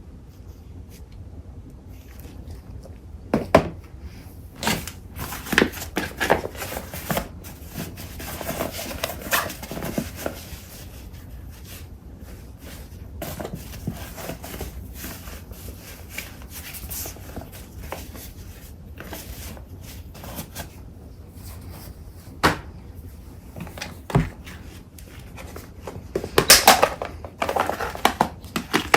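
Sheets of craft paper and packaging being handled and shuffled: on-and-off rustling and crinkling with a few sharp taps, quieter in the middle and loudest in a busy flurry of crinkling near the end.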